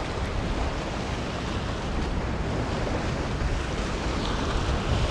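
Steady wash of surf against the rock jetty with wind buffeting the microphone.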